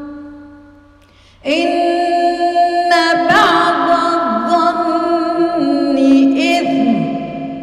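Female voice chanting Quran recitation in a melodic tajweed style, one long phrase of held notes with ornamented pitch turns. It starts about a second and a half in after the echo of the previous phrase dies away, and fades with a long echo near the end.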